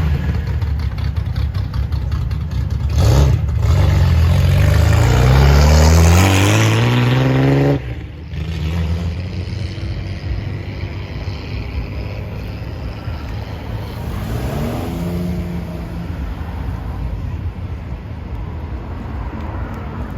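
Modified car engine being revved hard, its pitch climbing for several seconds before it cuts off sharply about eight seconds in. A second, shorter and quieter rev comes later, over other engines running.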